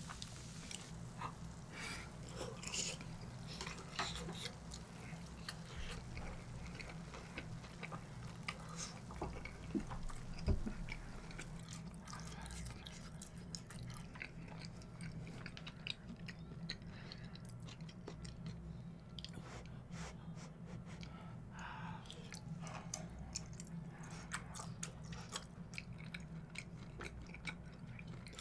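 Close-miked chewing of grilled beef intestines: many small wet clicks and smacks of the mouth, over a low steady hum.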